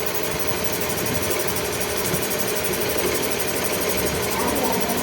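Workshop machinery running steadily, an even mechanical drone with a constant hum and no change in pitch.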